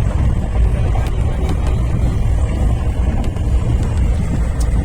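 Passenger train running, heard from inside the carriage: a steady loud low rumble with a few faint clicks.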